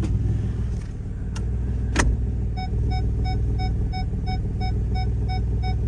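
Car engine idling with a steady low exhaust rumble from a leaking exhaust, which the inspector places at the catalytic converter. About two seconds in there is a click, and soon after a dashboard chime starts beeping rapidly, about four beeps a second.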